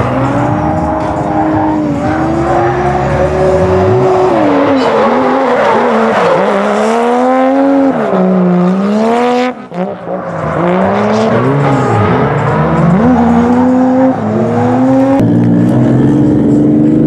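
A drift car's engine revving up and down hard as it slides, its tyres squealing, with a brief sharp drop in revs a little before ten seconds in. Near the end the engine note turns steadier.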